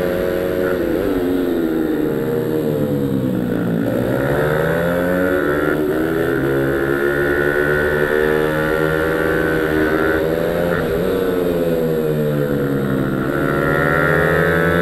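Pit bike's small single-cylinder engine running hard on a track. Its pitch falls and climbs again several times as the throttle is shut and reopened through corners and shifts.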